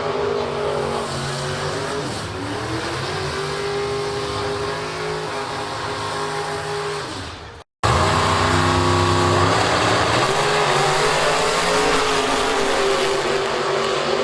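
Piston-engined drag race car engines running hard, their pitch dropping and climbing again. The sound cuts out abruptly about eight seconds in and comes straight back, loud, with another engine.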